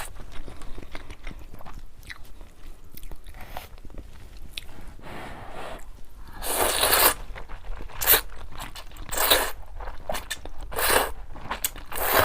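Close-miked eating of luosifen rice noodles with a fried egg: biting, crunching and chewing. Quiet chewing clicks in the first half give way to several louder bursts of eating noise in the second half.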